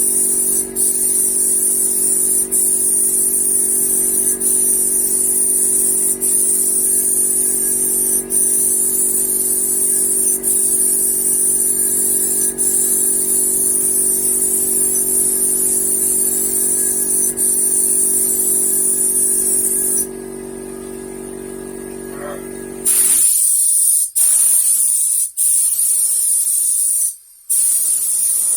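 Paint sprayer hissing steadily while a car is sprayed, with brief breaks about every two seconds between passes and a longer pause near the end. A steady motor hum runs underneath and stops about three-quarters of the way through.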